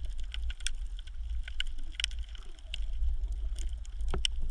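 Underwater ambience picked up by a camera in the sea: a steady low rumble of moving water, with many scattered sharp clicks and crackles.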